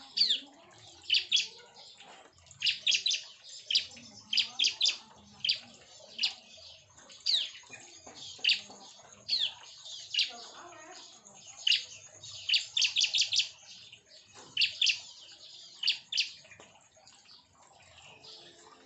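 Bar-winged prinias (ciblek) calling: many short, sharp chirps, some sweeping downward in pitch, often in quick runs of three to five, thinning out near the end.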